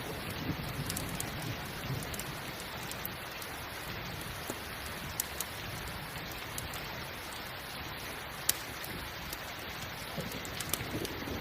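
Steady rain falling, with occasional sharp crackles and pops from a campfire, the loudest about eight and a half seconds in. A low rumble of distant thunder comes in near the end.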